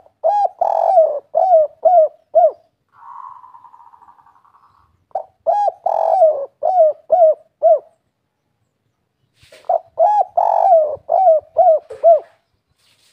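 Spotted dove (tekukur) cooing in the 'kuk 3' song style: three phrases of about seven quick, rhythmic coos each, a few seconds apart. A fainter buzzy trill fills the gap after the first phrase.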